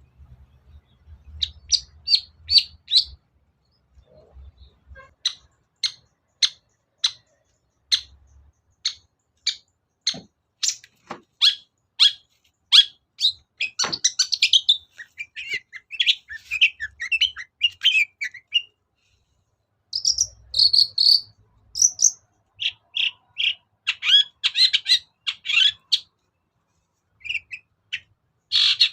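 Long-tailed shrike (cendet) singing: a run of sharp, high single notes about two a second, then faster, scratchy chattering phrases, broken by short pauses.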